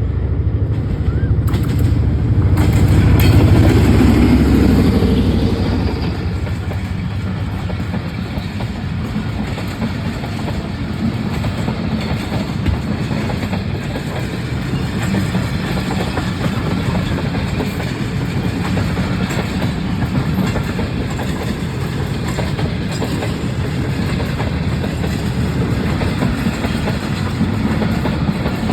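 GE U30C (ZCU-30) diesel-electric locomotive passing close by, its engine loudest a few seconds in. Then a long steady rumble of passenger coaches rolling past, with wheels clicking over the rail joints.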